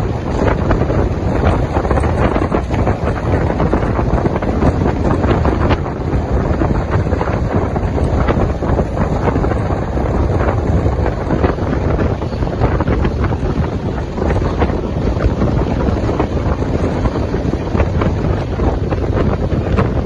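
Wind rushing over the microphone at the open door of a moving LHB passenger coach, over the steady rumble of the train running on the rails, with scattered short clatters.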